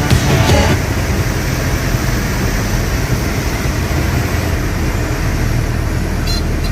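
Steady rushing drone of a light airplane's engine and airflow, with strong low rumble. Background music cuts off under a second in.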